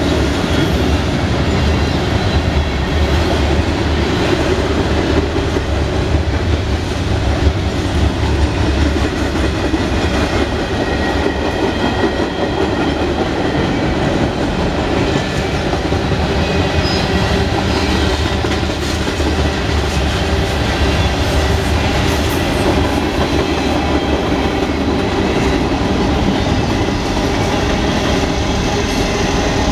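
Freight cars of a passing train rolling by steadily, their steel wheels clattering over the rail joints with a continuous rumble.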